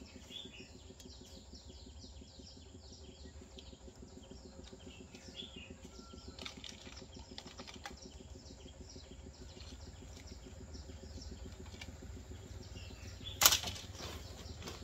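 Faint, repeated chirping of small birds over a low steady hum, with a few quiet clicks from plastic flower pots and potting mix being handled. A brief loud crackle near the end is the loudest sound.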